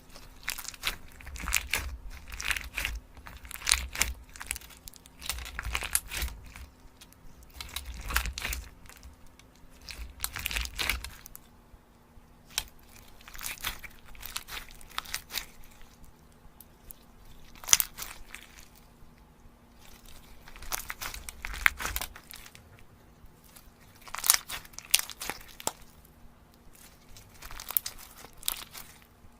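Close-miked crinkling and crunching of chocolate and its wrapper for ASMR, in repeated crackly bursts a second or two apart, with low handling bumps under them for about the first ten seconds.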